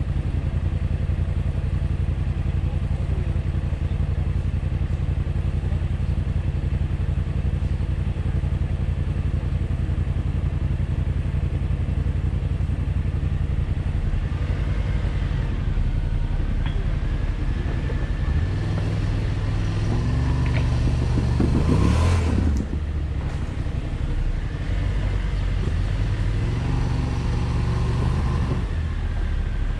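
Jeep Wrangler JL engine idling steadily with the vehicle stopped. About two-thirds of the way in it revs up to a peak, then runs unevenly as the Jeep crawls over rocks.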